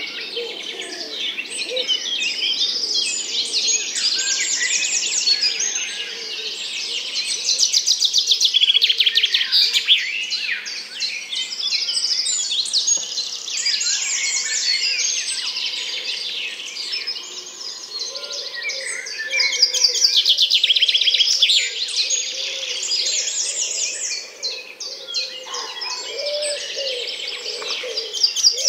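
A dense chorus of small birds chirping and trilling, with fainter, lower calls underneath that come up near the end.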